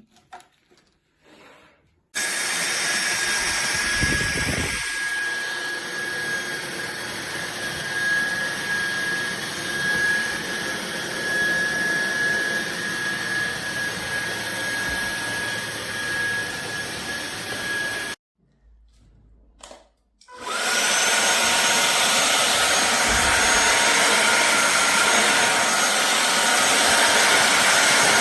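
Fieety cordless stick vacuum cleaner's motor running with a steady high whine, switched off about two-thirds of the way in, then switched back on, spinning up and running louder. A few faint clicks come before it starts.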